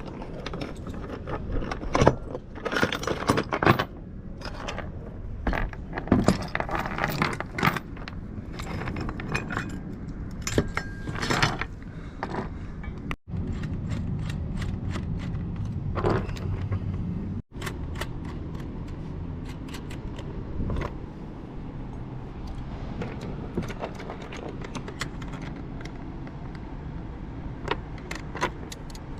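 Galvanized anchor chain and metal fittings clinking, jingling and scraping as they are handled, in busy bursts through the first dozen seconds. Later a steady low hum carries on under occasional light metallic clicks.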